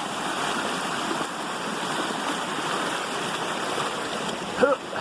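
Steady rush of rainwater runoff pouring along a flooded stream channel. A brief pitched sound cuts in near the end.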